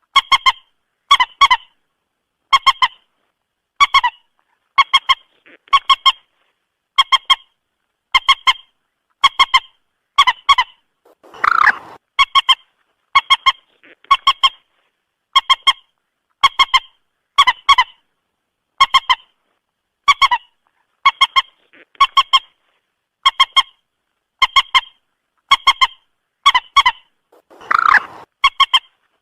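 Common moorhen calls, played as a trapping lure: short honking notes in pairs, repeated about once a second. Twice, a longer, harsher call breaks in.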